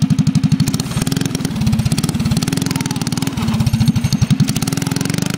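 Small Briggs & Stratton single-cylinder engine on a mini bike running with an even, rapid firing beat, its speed picking up about a second in and settling back a couple of seconds later.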